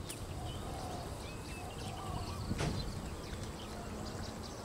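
Small birds chirping, with many quick short calls overlapping, and a lower warbling call now and then. One sharp knock about two and a half seconds in.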